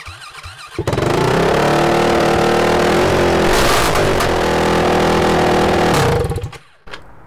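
Yamaha WR450's single-cylinder four-stroke engine starting about a second in and running very loud with no exhaust pipe fitted, then shutting off after about five seconds.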